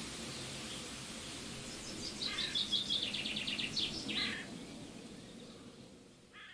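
Songbird singing a rapid trill of high repeated notes, about two seconds in and lasting a couple of seconds, over a steady outdoor background hum. The sound fades away, and one short call comes just before the end.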